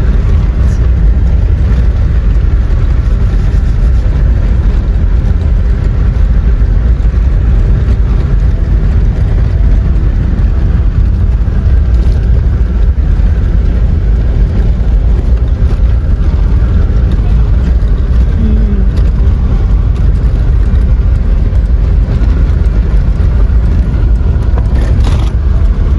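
Mahindra Xylo driving on the road: a loud, steady low rumble of road and engine noise that does not change.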